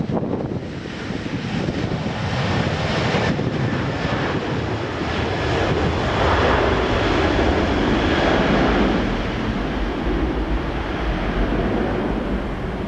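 Jet airliner engine noise, a dense steady rush that grows louder around the middle.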